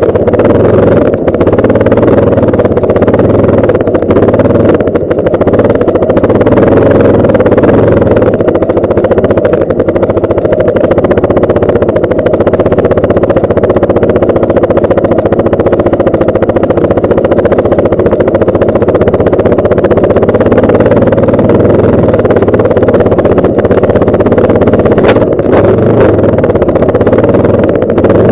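Yamaha Lander 250 motorcycle engine running at a steady speed, a loud, even drone with no change in pitch.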